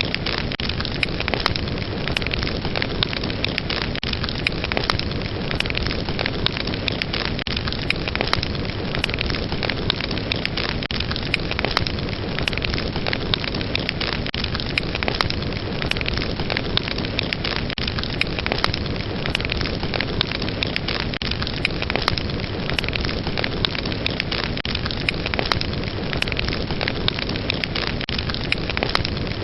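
Fire burning with a steady rush and many sharp crackles and pops, a few each second.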